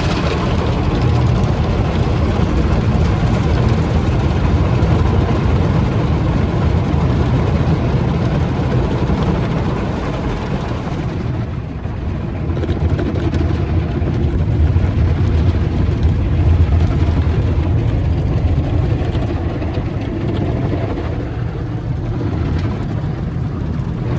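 Automatic car wash machinery heard from inside the car's cabin: a steady, heavy rumble with a rushing hiss of spray over it. The hiss thins out about eleven seconds in.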